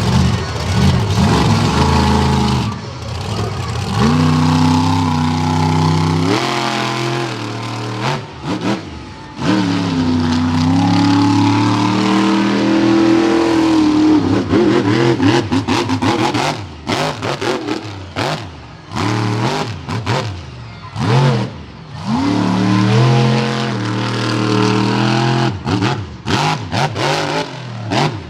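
Monster truck engine revving hard, the throttle opening and closing again and again so the pitch swings up and down. Over the second half it turns choppy, with quick throttle blips and sharp cut-offs.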